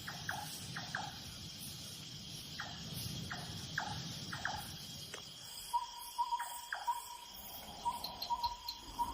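Evening insect chorus: a steady high-pitched trill of crickets, with a series of short falling chirps over a low rumble in the first half, and a pulsing higher tone joining from about six seconds in.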